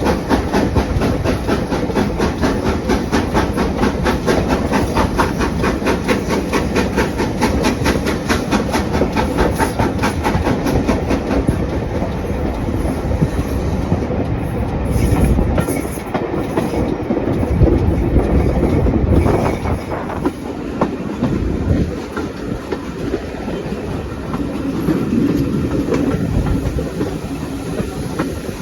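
A heritage train running on the line, with fast regular clicking of wheels over the rails and a louder, deeper stretch around the middle.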